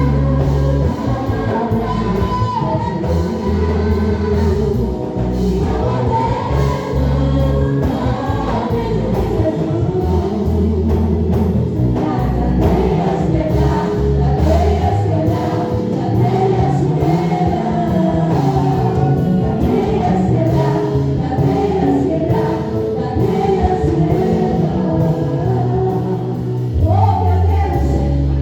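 Live gospel praise music: a group singing together over a band with a strong bass and a steady beat.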